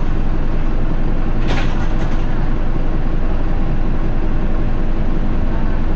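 Isuzu Erga city bus's four-cylinder diesel engine running steadily under way, heard from inside the cabin, with a short hiss of air about a second and a half in.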